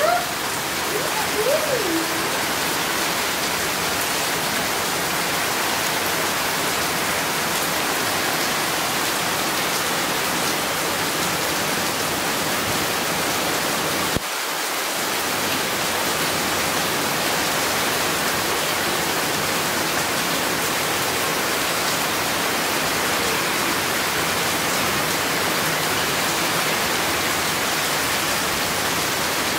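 Heavy rain falling steadily, an even, dense hiss of downpour. A short wavering call is heard in the first couple of seconds, and about halfway the sound cuts out for an instant and resumes.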